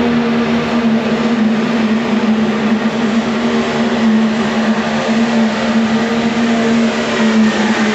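Diesel pulling truck's engine running loud at high, steady revs, holding one pitch throughout.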